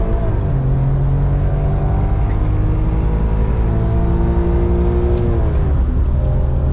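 BMW E46 M3's S54 straight-six running while the car is driven, heard from inside the cabin. The revs drop right at the start, climb slowly for about five seconds, then drop again and hold steady.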